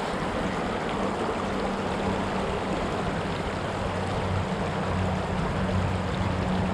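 Creek water rushing steadily, with a low steady hum underneath.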